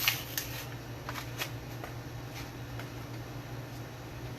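Light clicks and clatter of small parts being handled on a workbench, several in the first couple of seconds, over a steady low hum.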